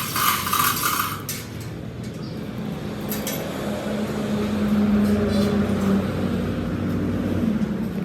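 Metalworking machine running with a steady hum, with metal clinking and scraping. A short harsh scraping burst comes in the first second, then the hum grows louder through the middle and eases near the end.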